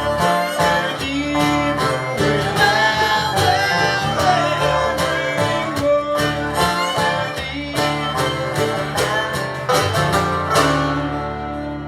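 Live country-bluegrass band playing an instrumental passage of the song on guitar and other plucked strings. About ten and a half seconds in, the picking stops and a final chord rings out.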